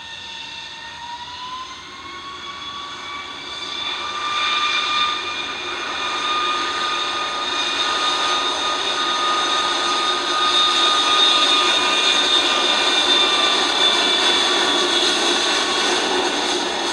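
Jet airliner's engines, a steady noise with a high whine that rises in pitch over the first two seconds and then holds. The sound grows louder through the first half and stays loud until it eases near the end.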